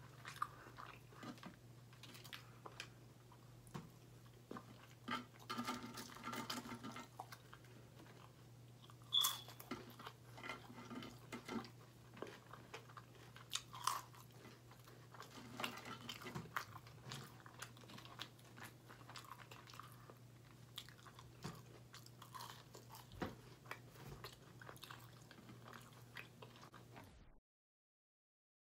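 Close-up chewing and biting sounds of a person eating crispy fried chicken tenders and toast, with irregular crunches and mouth clicks over a steady low hum. The sound cuts out about a second before the end.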